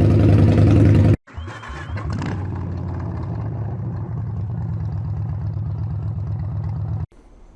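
V-twin motorcycle engine running loud, cut off abruptly about a second in. It is followed by a quieter stretch of engine running steadily, with a brief rev near the start, which stops suddenly near the end.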